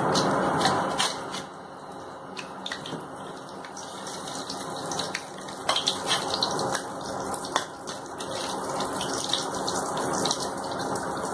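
Breaded cheese cutlets sizzling in hot rice bran oil in a steel kadai, with scattered pops and crackles. The sizzle is loudest for the first second or so, drops, then slowly builds again.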